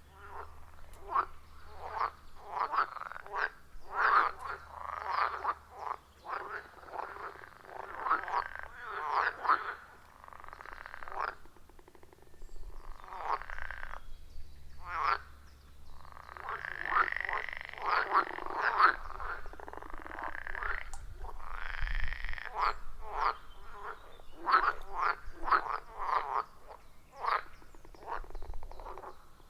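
A chorus of many frogs calling at a pond: rapid, overlapping short croaks throughout, with a few longer, drawn-out calls in the middle.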